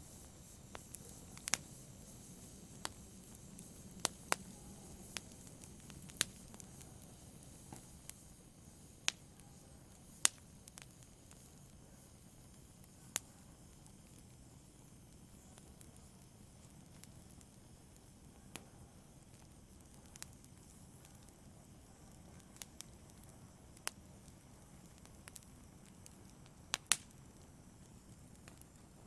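Wood fire burning in a fireplace: a low steady hiss with sharp, irregular crackles and pops every second or two.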